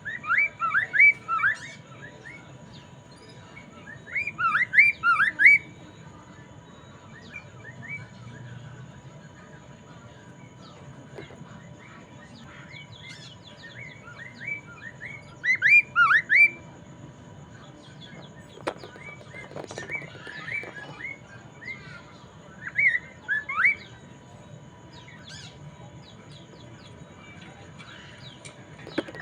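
A poksay mandarin, a laughingthrush, singing in loud phrases of rapid sweeping whistled notes. The phrases are separated by pauses of a few seconds, with softer chirps between them.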